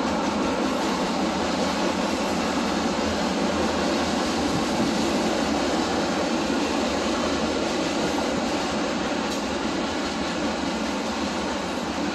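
Cars of a CPKC freight train rolling by on the rails: a steady, even noise of wheels on track.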